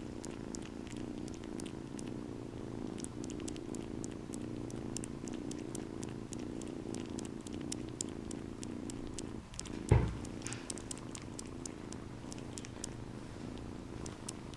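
Kitten purring steadily as it kneads a blanket, with faint short clicks throughout and a single thump about ten seconds in.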